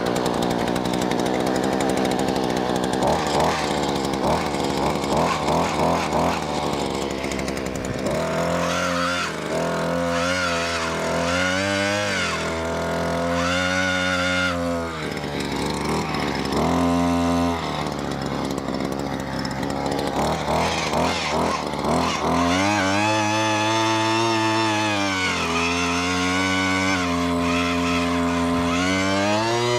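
Gas-powered earth auger (one-man post hole digger) running as it bores into the soil. Its engine pitch drops and climbs again and again as the bit works.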